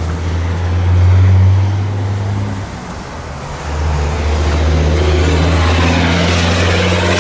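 The diesel engine of a 2004 Blue Bird Vision school bus running with a strong steady low drone. It drops off briefly about three seconds in, then picks up again and holds steady.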